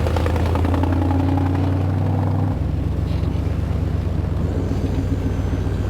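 Truck engine running steadily; its low note changes about two and a half seconds in.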